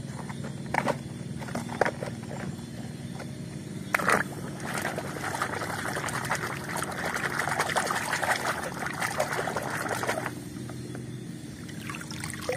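A toy tractor is swished and dunked in a plastic basin of water, with water sloshing and trickling; the sloshing stops abruptly about ten seconds in. Before it come a few sharp plastic clacks as toys are handled in a basket.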